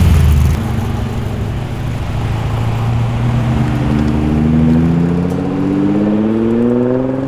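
Car engine, loud for the first half-second, then a car accelerating away with its note climbing steadily through the last few seconds.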